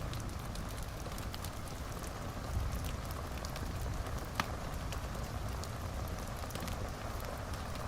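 Wood fire in a fireplace crackling over a low steady rumble, with scattered small snaps and one sharper pop a little after four seconds in.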